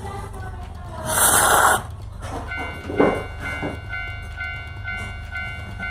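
Railway sound: a train's steady low rumble, with a loud burst of hiss about a second in. From about halfway, a pitched electronic warning tone repeats about three times a second.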